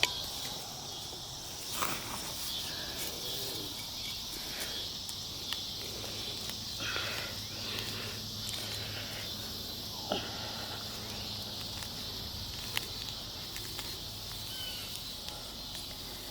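Steady high-pitched insect chorus, with a few scattered knocks and scrapes of digging for a metal-detector target.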